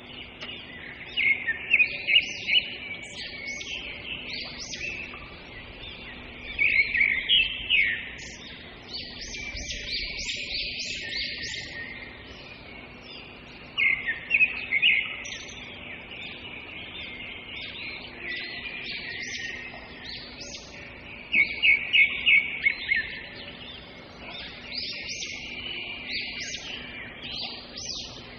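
Birds chirping and singing, with several birds calling over one another. A few loud quick runs of repeated notes stand out.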